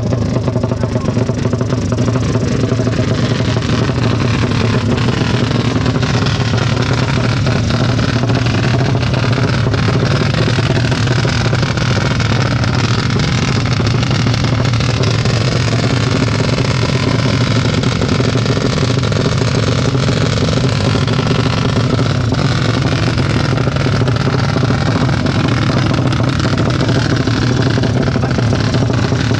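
Modified racing motorcycle engines running loudly and steadily, with faint voices in the background.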